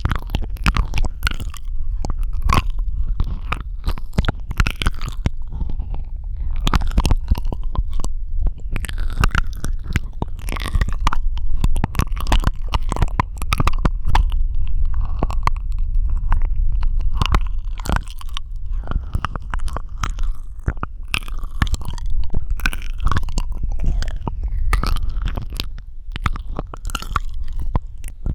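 Close-miked ASMR mouth sounds: a fast, irregular stream of wet tongue clicks, lip smacks and squishes over a steady low rumble.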